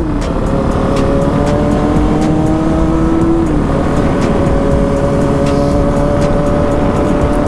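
450 dirt bike's single-cylinder engine running under way, its pitch climbing slowly and dropping about three and a half seconds in as it shifts up a gear, then holding steady, with wind rushing over the helmet microphone.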